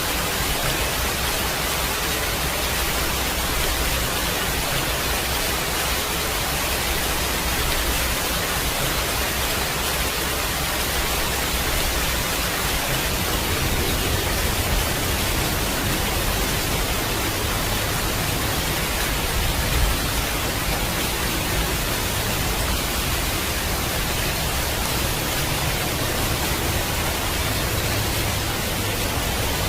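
Steady, dense hiss of heavy rain. A low rumble builds about halfway through and peaks briefly, like distant thunder rolling.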